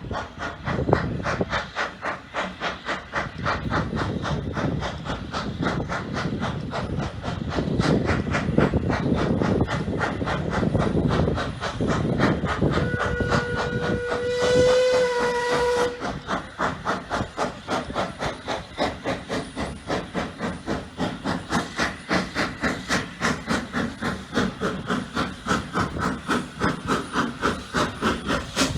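Hunslet 0-6-0 saddle-tank steam locomotive chuffing with steady, rhythmic exhaust beats and steam hiss. About halfway through it sounds its whistle once, a steady note of about three seconds.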